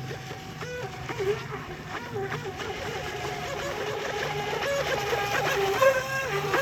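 Electric whine of small RC jet boats' brushless motors, jumping up and down in pitch as the throttle is worked and growing louder toward the end.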